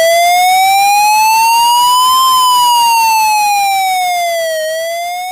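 An electronic siren-style wailing tone with a buzzy edge. It glides slowly up for about two seconds, then down for about two seconds, and starts to rise again near the end, growing a little quieter.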